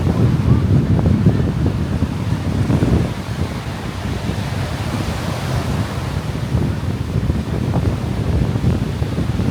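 Gusts of sea wind buffeting the microphone, uneven and rumbling, over the steady wash of surf breaking on a sandy beach.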